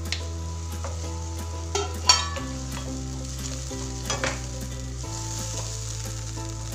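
Chopped onions and tomatoes sizzling in hot oil in a pan while a wooden spatula stirs them. A few sharp scrapes and taps of the spatula on the pan come through, the loudest about two seconds in.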